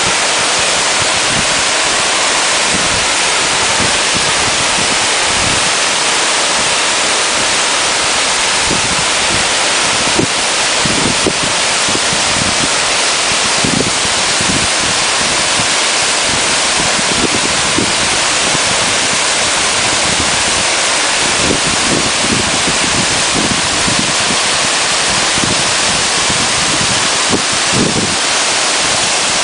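Waterfall rushing in a loud, steady roar of falling water, with irregular low buffeting from wind on the microphone.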